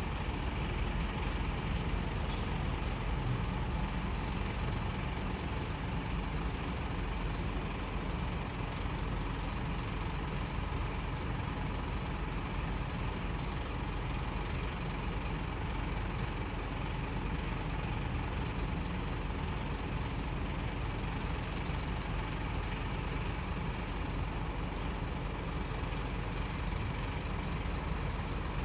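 Scania N230UB city bus running steadily: a constant low engine rumble with an even noisy hiss, without clear changes in pitch or level.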